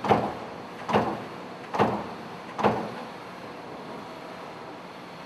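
Amada sheet-metal machine striking four times, heavy metallic clunks just under a second apart, each dying away quickly, over steady workshop noise.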